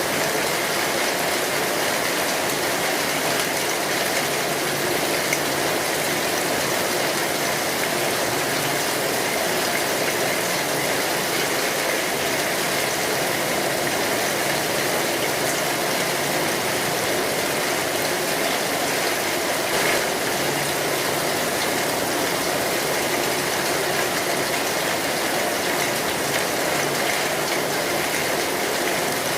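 Steady rain drumming on a metal roof, with a wood fire crackling in dense small ticks underneath.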